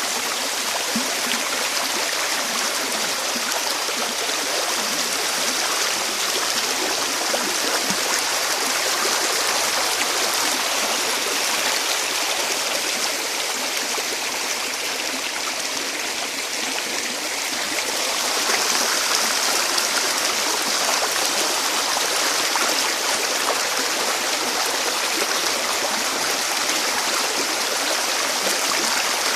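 Running water rushing steadily, with no pauses, a little louder from about eighteen seconds in.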